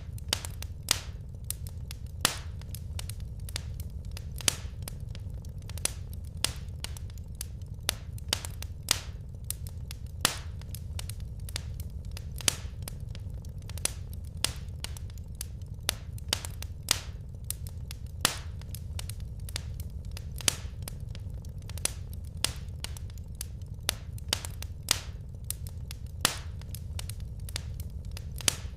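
Wood fire crackling in a fireplace: sharp pops and snaps at irregular intervals, about two a second, over a steady low rumble of the burning logs.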